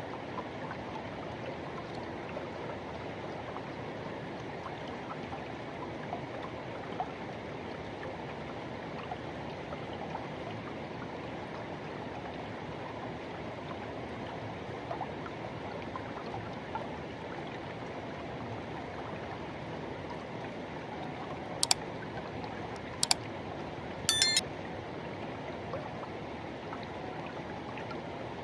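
Forest river running steadily over rocks, an even rushing of water. Near the end, three brief sharp sounds stand out above it, the loudest things heard.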